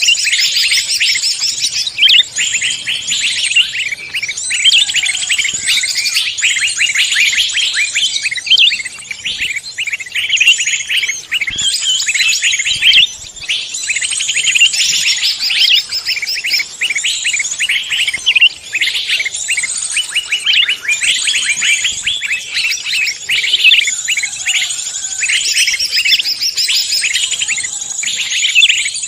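A dense chorus of forest songbirds chirping and trilling in rapid, overlapping calls without a break: a recorded bird-lure call mix.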